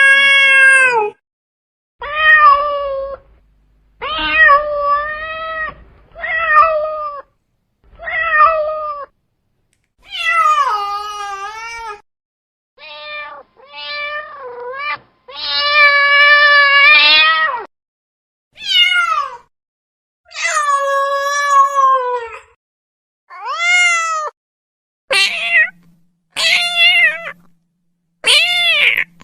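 Domestic cat meowing over and over: about fifteen separate meows, most about a second long and a few drawn out to about two seconds, each rising then falling in pitch, with dead silence between them.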